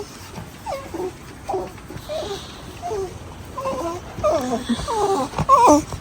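A small dog whining in a series of short calls that bend up and down in pitch, growing louder and longer toward the end, with the dog vocalising for attention.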